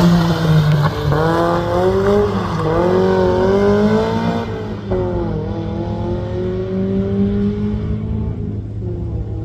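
Rally car engine accelerating hard up through the gears, its pitch climbing and dropping at each of three quick upshifts, then pulling away and fading.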